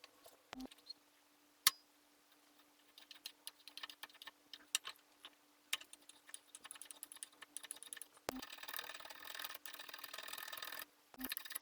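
Light clicks and taps of hand work on a wooden instrument part, growing busier, then a steady scraping from about eight seconds in that stops briefly near the end.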